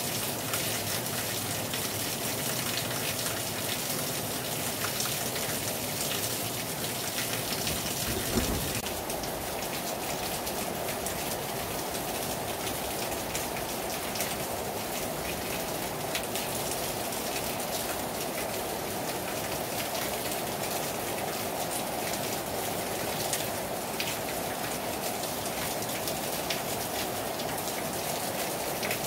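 Heavy rain falling hard on a terrace: a steady hiss full of the patter of individual drops. A single brief low thump comes about eight seconds in.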